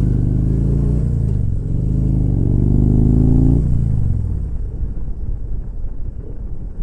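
Motorcycle engine accelerating through the gears, its pitch climbing and dropping at each shift. About three and a half seconds in it settles into a steady rush of wind and road noise while cruising.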